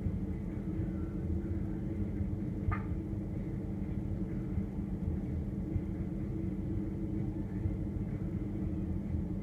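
Refrigerator running, heard from inside the closed fridge: a steady low hum with a few constant tones over a rumble. There is one short tick about three seconds in.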